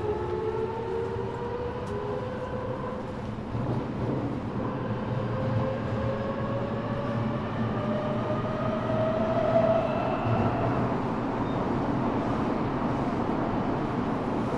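Eidan 6000-series subway car's Mitsubishi three-level VVVF inverter, reused from the 7000 series, whining high as the train accelerates. Its tones glide upward, drop back about two to three seconds in and climb again, over the steady rumble of the train running on the rails, heard from the car floor.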